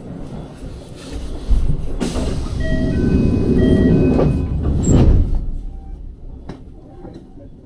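A Japanese train's door chime sounds over loud train and platform noise. Two alternating tones repeat about four times over two seconds, then the noise drops away sharply just after the chime ends.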